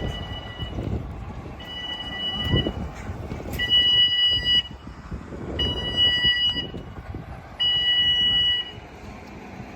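Level crossing warning alarm sounding in pulses about a second long, roughly every two seconds, each a high two-note tone, over low road traffic rumble; it stops near the end. It signals the crossing closing for an approaching train.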